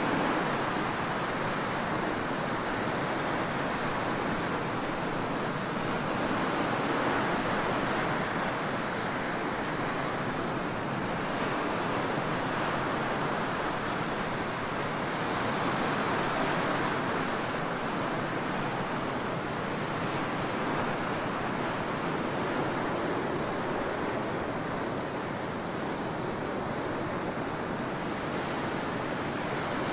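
Ocean surf washing onto a tropical beach: a continuous rush of breaking waves that swells and eases every few seconds.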